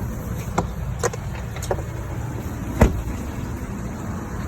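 A vehicle engine running at a steady low rumble, with a few sharp clicks or knocks over it, the loudest about three seconds in.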